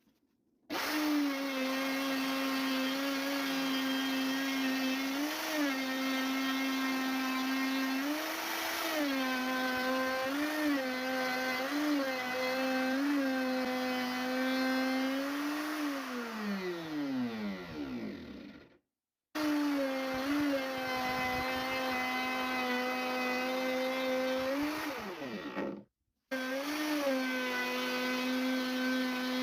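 An electric power-tool motor running at a steady pitch with several brief rises in speed, then winding down to a stop; it is started again, winds down again, and starts a third time.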